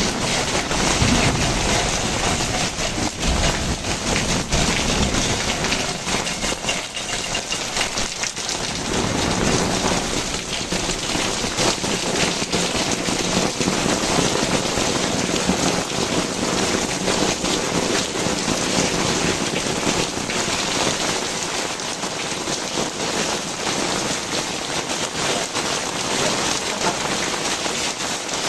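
Heavy rain pouring down, a steady dense hiss of drops hitting the ground and surfaces.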